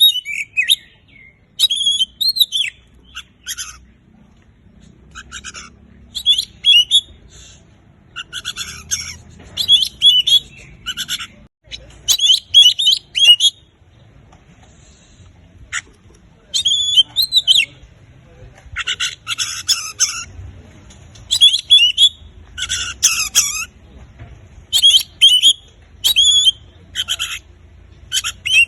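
Oriental magpie-robin (kacer) in full song: loud, quick, varied whistled and chattering phrases of a second or two each, broken by short pauses, with a longer pause about halfway through.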